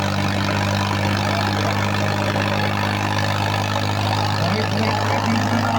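Tractor diesel engine running steadily, a low even hum.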